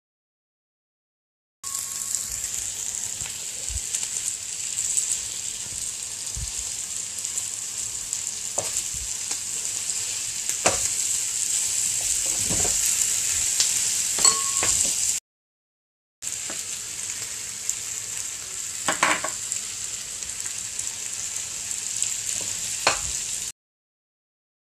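Egg noodles, cabbage, spring onions and red chilli sizzling steadily in a hot pan as they are stir-fried, with a metal utensil scraping and clicking against the pan now and then. The sizzle stops dead twice, for about a second each time.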